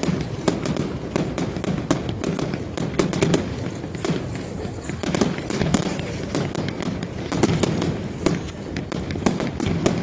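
Professional fireworks display: a rapid, irregular barrage of bangs and crackles from bursting shells, many overlapping, over a continuous low rumble.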